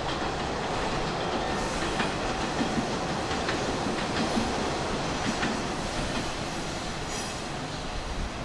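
Hanshin 5500 series electric train running along the track, heard from inside the car: a steady rumble with a few clicks of the wheels over rail joints in the middle.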